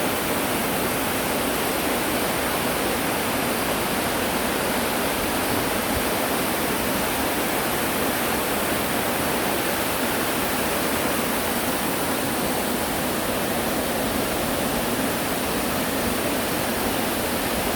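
Yongchu Falls, a waterfall in a rock gorge, pouring steadily: an even rushing of falling water.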